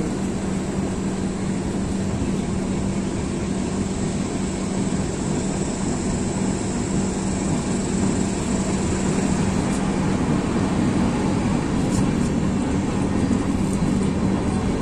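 Passenger train in motion heard from an open coach door: a steady rumble of wheels and running gear with a constant droning hum, growing slightly louder near the end as the train gathers speed.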